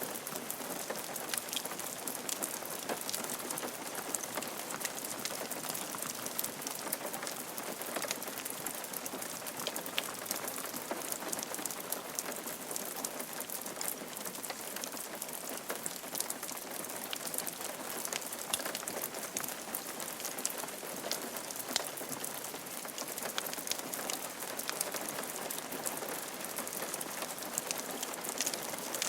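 Steady rain falling on a roof, an even patter of many individual drops hitting the surface.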